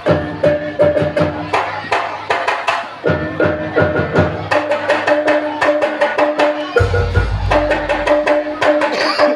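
Traditional Javanese percussion music for a gedruk buto dance: fast, dense hand-drum strokes over steady held pitched tones, with deep low drum hits entering about three seconds in and again near the seven-second mark.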